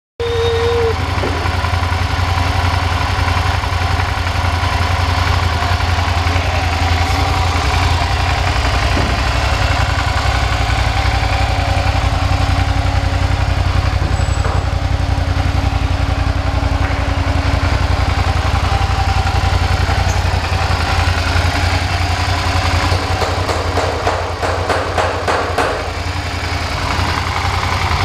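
2005 Suzuki SV650's V-twin engine idling steadily, with the sound wavering and dipping a little near the end.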